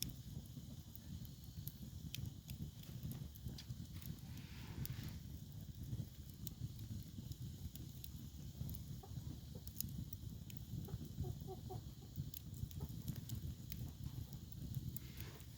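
Firewood burning, with scattered sharp crackles and pops over a low steady rumble.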